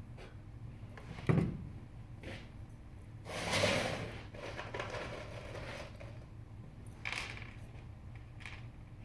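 Hand work on wood: a single knock, then two scraping or rubbing strokes, the first about a second long and the second shorter.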